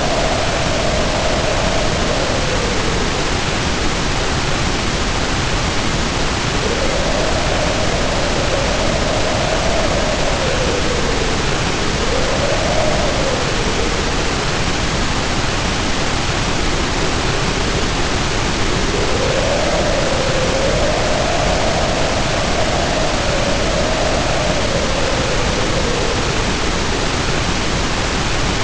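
Heavy rain pouring down steadily, with wind howling over it in several long swells whose pitch rises and falls.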